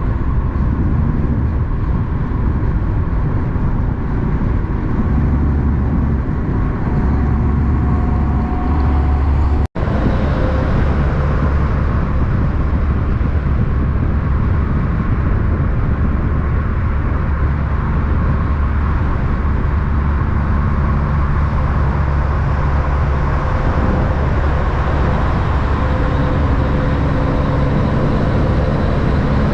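Steady low rumble of motor vehicles running. About ten seconds in the sound cuts out for a split second, an edit, and then carries on the same.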